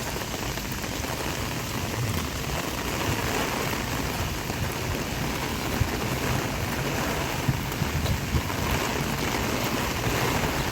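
Heavy typhoon rain pouring down steadily, with a few sharper drop impacts standing out.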